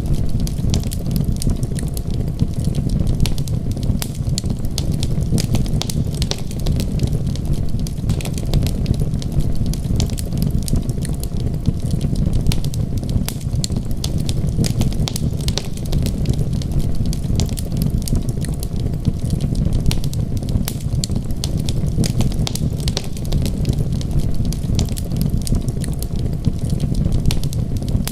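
Wood fire crackling with many small, rapid pops over a steady low rumble.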